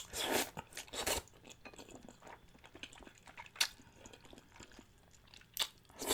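Close-miked eating sounds: a person chewing with the mouth partly open, giving a few sharp wet smacks among softer small clicks of chewing.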